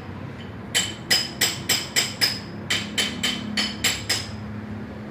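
About a dozen sharp, ringing metallic taps, roughly three a second, that stop about four seconds in: a hammer tapping on metal engine parts.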